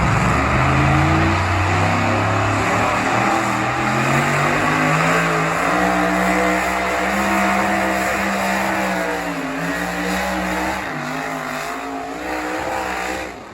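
High-horsepower pulling truck's engine at wide-open throttle during a sled pull. Its pitch climbs over the first several seconds, holds, wavers, then drops off near the end as it lets off.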